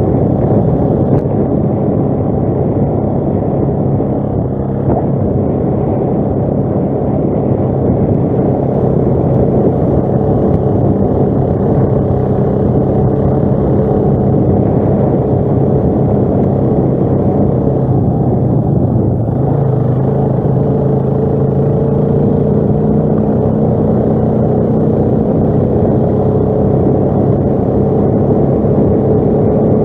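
ATV engine running steadily on the move, its pitch drifting gently up and down with the throttle.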